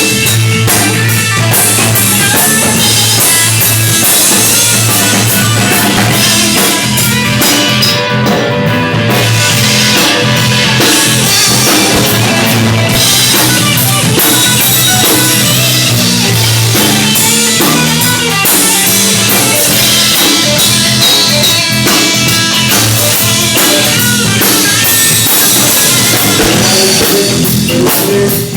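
Rock and roll band playing, with a drum kit and guitars driving a steady beat.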